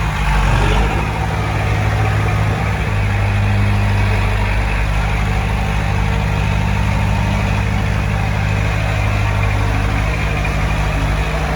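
Heavy machine's diesel engine running steadily, its note shifting slightly about four seconds in.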